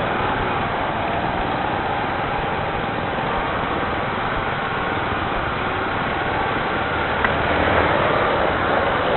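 Rain falling in a steady, even rush of noise, with a short tick about seven seconds in.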